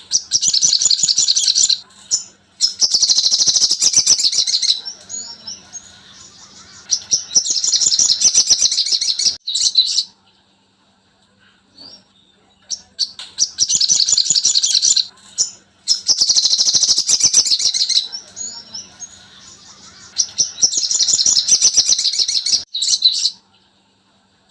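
Sogon bird's song: loud, rapid, high-pitched chattering trills in bursts of two to three seconds, separated by short pauses and softer twitters. It is a looped masteran recording, and the whole sequence repeats about every twelve seconds.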